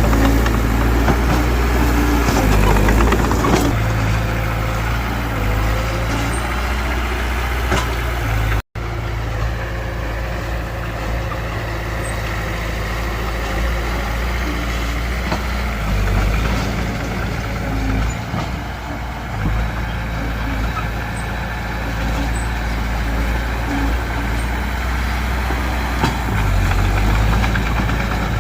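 Heavy-equipment diesel engine running steadily at work, with a momentary break in the sound about nine seconds in.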